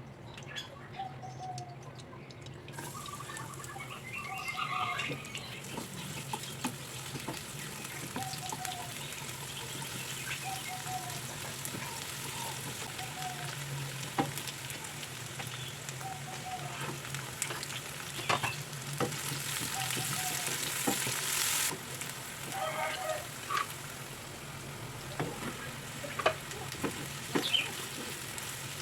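Food stir-frying in hot oil in a pan: a steady sizzle with scattered spatula clicks and scrapes. The sizzle starts about three seconds in, grows louder for a couple of seconds about two-thirds of the way through, then drops suddenly.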